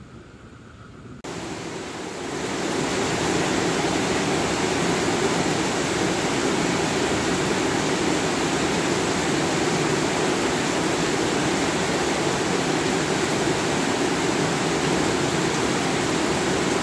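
Heavy rain pouring down: a steady, even hiss that comes in suddenly about a second in and reaches full strength a second or so later.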